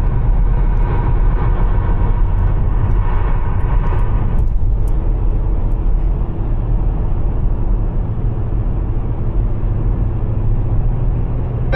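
Steady low rumble of a moving vehicle's engine and road or water noise, with a fainter higher hum that drops away about four seconds in.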